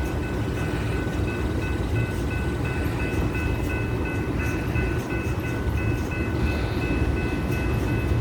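Freight train cars rolling past in a steady low rumble, with a few steady high ringing tones held above it.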